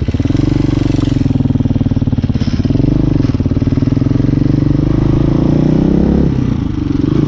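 Hawk 250 motorcycle engine running under way, picked up by the onboard camera's own mic. It comes on stronger at the start, holds a steady note with small rises and falls, and dips briefly about six seconds in.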